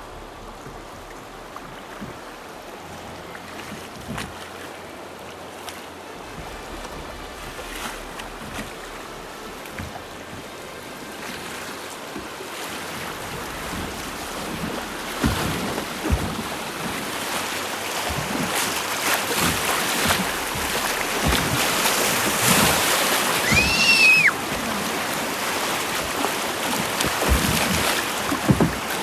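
Rushing river water around a drift boat, growing steadily louder as the boat runs into faster water, with a few knocks. A brief high squeal rises and falls about 24 seconds in.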